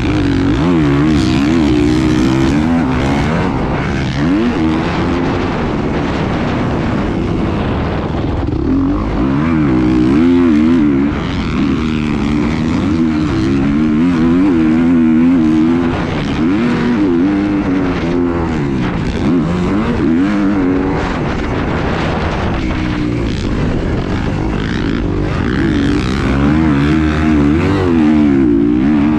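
An engine running continuously, its pitch rising and falling again and again over a noisy rushing background.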